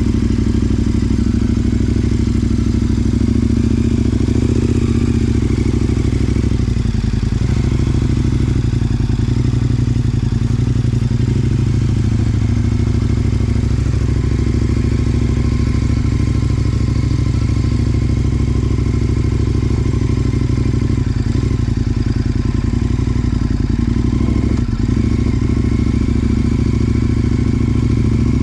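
KTM 1090 Adventure motorcycle's V-twin engine running steadily under way on a rough dirt track, with no big rises or falls in revs.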